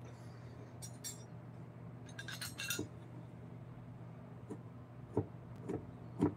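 Small hard objects clinking with a bright ring, in two brief clusters, then a few dull knocks near the end, over a steady low hum.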